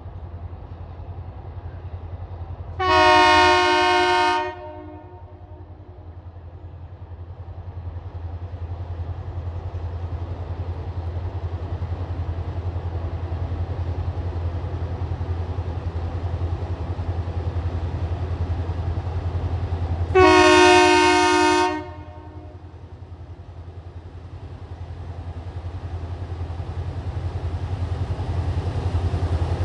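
Tasrail diesel freight locomotives sounding their horn in two blasts of about a second and a half each, the second some seventeen seconds after the first. A low diesel rumble runs underneath and grows louder as the train comes closer.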